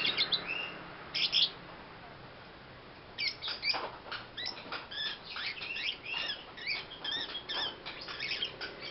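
Lovebird chirping: a few short chirps at the start, a pause, then a quick run of twittering chirps from about three seconds in.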